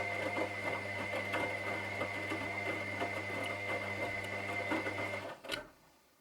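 Washing machine running: a steady motor hum with a high whine and rapid rattling. It cuts off abruptly about five seconds in, with a click.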